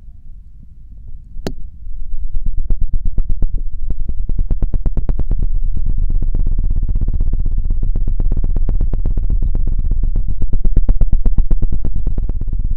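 Rapid scratching and knocking on an ASMR microphone with a feather rod, many quick strokes a second, with a heavy low rumble from the close contact. A single sharp click comes about 1.5 seconds in, before the fast strokes begin.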